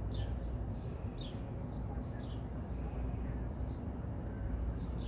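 A small bird chirping over and over, short falling chirps about two or three a second, over a steady low rumble.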